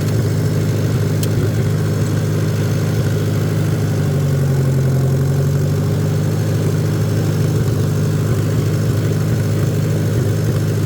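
Tractor engine running steadily, its note rising slightly for a second or two around the middle.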